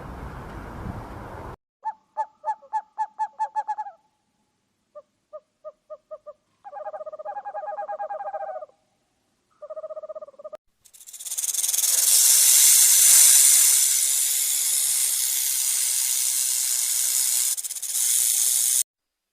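An owl hooting in quick pitched series: a run of about eight rapid hoots, a shorter run of five, then two longer wavering calls. From about eleven seconds in comes a long, loud, even hiss.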